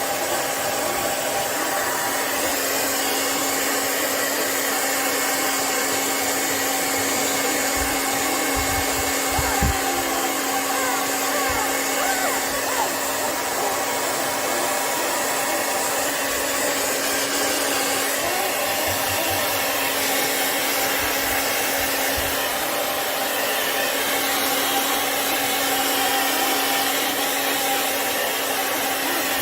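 Handheld hair dryer running steadily on its warm setting, drying a puppy's wet coat: a constant rushing blow with a low steady hum.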